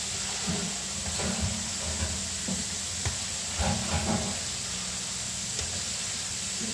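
Chicken pieces frying in hot oil in a wok, a steady hiss with a low steady hum underneath.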